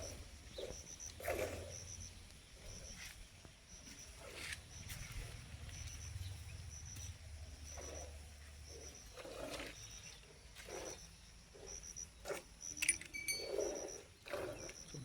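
Cattle at close range making a string of short, irregular puffs and grunts. A faint high chirp repeats steadily behind them.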